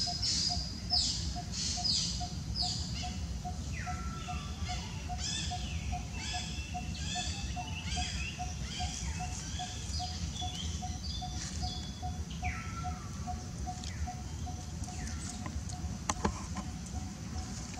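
Wild birds calling: a run of quick, falling whistled chirps, with a short low note repeated evenly about three times a second beneath them.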